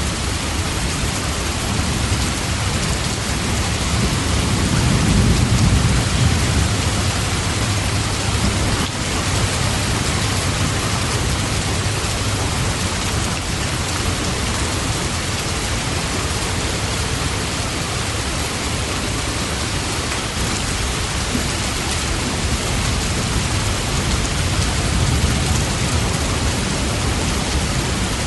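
Steady, heavy rain falling on a surface, a dense even hiss, with a low rumble swelling about five seconds in and again near the end.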